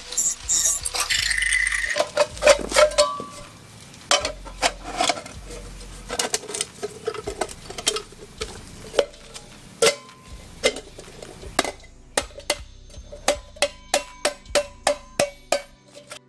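A loud hiss-like noise for about the first two seconds, then sheet-metal motorcycle exhaust parts knocked and clinked together, with short metallic ringing. Near the end the taps come in a quick run, about three a second.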